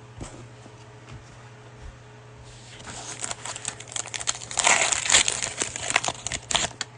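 Cellophane wrapper of a basketball card cello pack being torn open and crinkled in the hands. After a few light clicks, a dense crackling starts about two and a half seconds in, grows loudest past the middle and stops just before the end.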